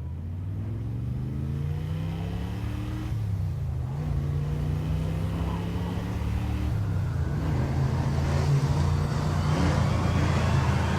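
Motor vehicle engine pulling away and accelerating, its pitch climbing and falling back at gear changes about three and seven seconds in.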